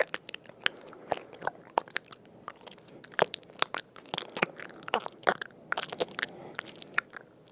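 An animal chewing and crunching food, with many short, irregular crisp crunches.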